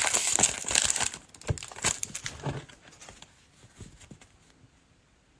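Plastic wrapper of a trading card pack crinkling as it is handled and opened. The sound is dense for about a second, then comes as a few scattered rustles that die away.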